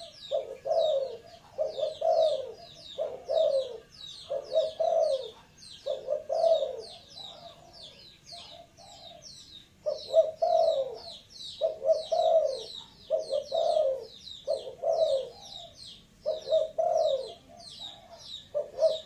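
Spotted dove cooing, one low phrase about every second, with a break of about three seconds near the middle. Rapid high chirping from small birds continues throughout.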